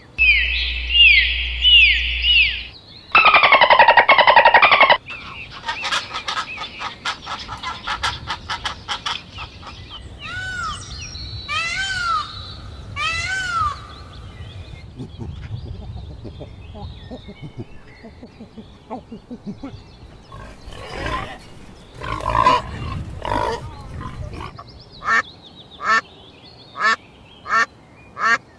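A succession of different animal and bird calls, each short stretch cut abruptly into the next: falling chirps, a dense pitched call, clicking, repeated arching calls, and a run of short separate calls near the end.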